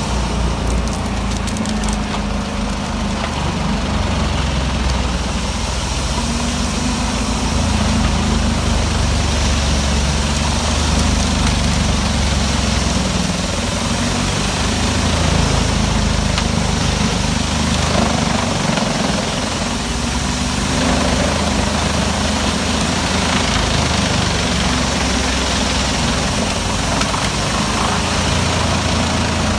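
Large wood chipper's engine running steadily under a constant, deep drone.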